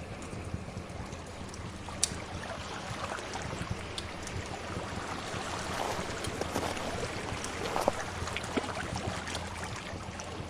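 Ambience mix of sea waves and a crackling fire: a steady wash of surf that swells through the middle, with scattered sharp crackles and pops.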